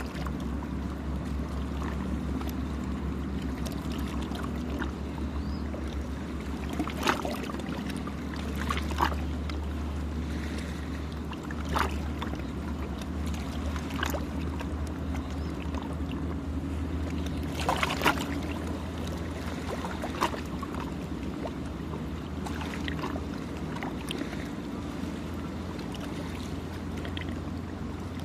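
Gentle sea waves lapping at the shore, with a handful of short splashes, over a steady low engine-like drone.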